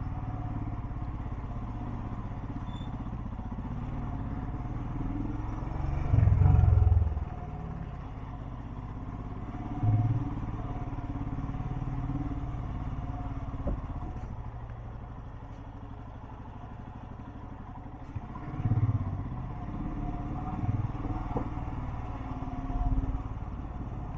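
Motorcycle engine running at low speed with a steady low hum, swelling louder briefly about six seconds in and again a few more times.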